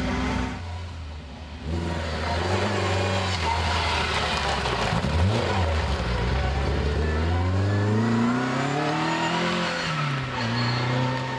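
Rally car engine at full throttle on a stage. Its pitch rises steeply over about three seconds near the end, then drops once and holds steady.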